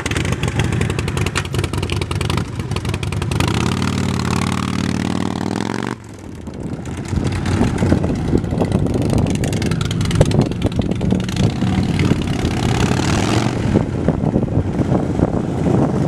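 2006 Harley-Davidson Dyna Wide Glide's Twin Cam 88 V-twin engine running just after start-up. It is revved up and held from about three and a half seconds in, then falls off sharply at about six seconds and goes on running with repeated throttle blips.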